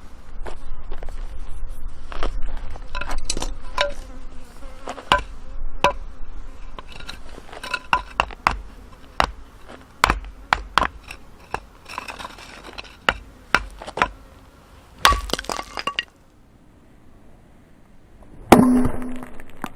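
Firewood being chopped with a bladed tool: a run of sharp, irregular strikes and cracks of wood, with a pause and then one louder, ringing hit near the end.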